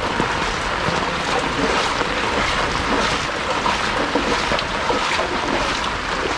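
Heavy rain falling steadily on an umbrella overhead and on shallow floodwater, an even hiss of water throughout.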